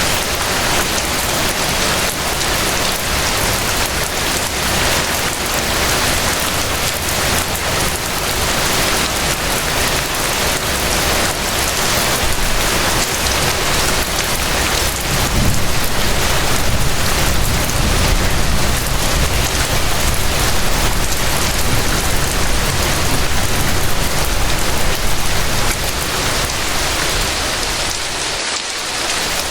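Steady rainfall: a dense, even hiss of rain. A deeper rumble swells underneath about halfway through and eases off near the end.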